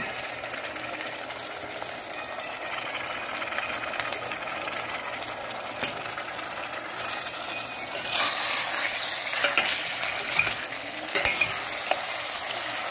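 Chicken pieces sizzling in hot oil with fried onions in a stainless steel pot as they begin to brown, turned with a steel ladle that scrapes and clinks against the pot. The sizzle gets louder about eight seconds in.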